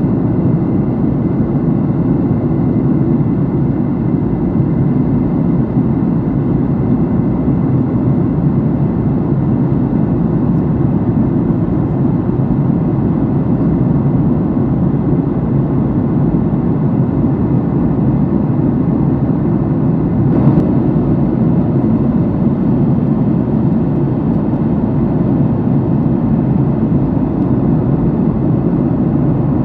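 Steady in-flight cabin noise of a jet airliner heard from a passenger seat, an even low rush of engines and airflow with a faint steady tone above it. There is a brief faint click about two-thirds of the way through.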